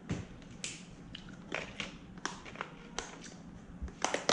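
A snack package being opened by hand: scattered sharp crackles and clicks of the packaging, with a cluster loudest near the end.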